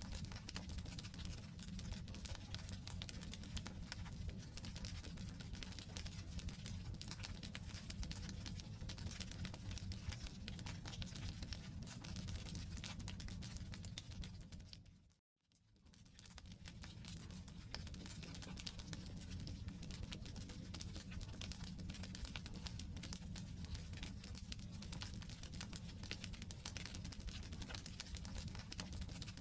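Wood campfire burning: a steady low rush with dense small crackles and pops from the burning logs. About halfway through, the sound fades out to silence for a moment and fades back in.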